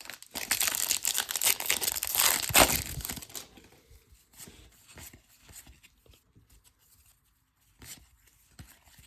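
A trading-card pack's foil wrapper being torn open and crinkled, loud for about three and a half seconds, then faint rustles and light ticks as the cards are handled.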